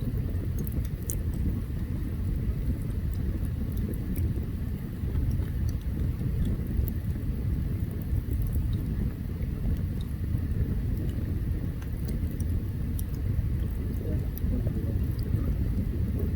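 Open campfire burning with a steady low rumble and scattered small crackles and pops.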